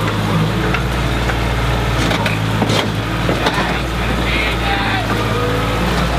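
Bulldozer's diesel engine running steadily, with a few sharp cracks about two to three and a half seconds in.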